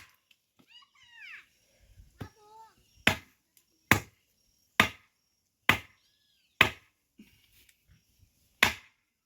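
Firewood being chopped by hand: six sharp chopping blows roughly one a second, starting about three seconds in, with a short pause before the last.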